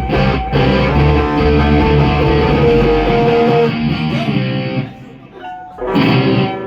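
A band playing live in rehearsal: electric guitar over bass guitar and drums. About halfway through the bass drops out and the playing thins almost to a stop for about a second, then the guitar comes back in with sliding notes near the end.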